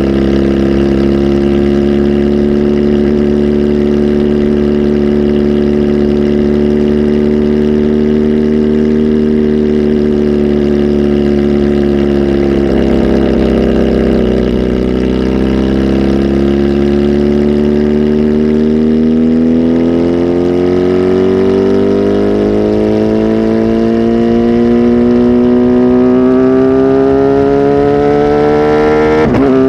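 Kawasaki Z H2 SE's supercharged inline-four running through an aftermarket full exhaust. Its note holds steady, dips briefly about halfway through, then climbs slowly and steadily as the revs build.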